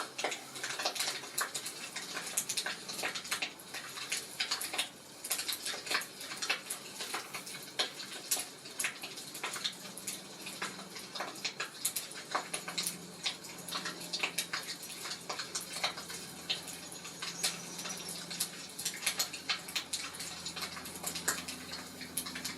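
Wood fire crackling, with frequent sharp pops over a soft rushing hiss.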